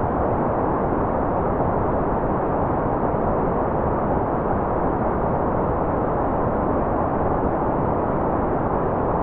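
Steady, unbroken white noise track with a deep, muffled hiss: its sound sits in the low and middle range and the high hiss is filtered away. It does not change at any point.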